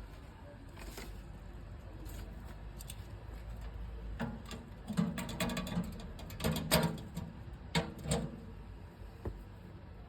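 Metal stove parts being handled: a run of sharp clicks, rattles and scrapes, most of them between about four and eight and a half seconds in.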